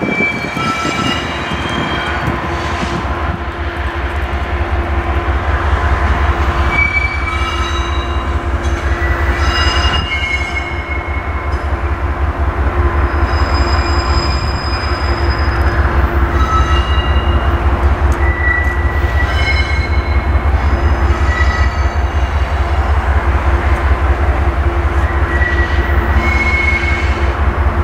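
Metro-North push-pull train, a Brookville BL20GH diesel shoving Shoreliner coaches cab-car first, crawling around a tight yard curve. The wheel flanges squeal in many short high-pitched squeals over a steady low rumble that grows a little louder as the train nears.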